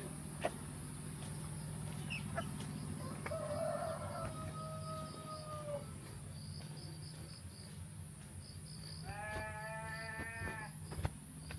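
A rooster crows twice: a long crow about three seconds in and a shorter, fuller one near the end. Underneath are a steady high insect drone and a low hum.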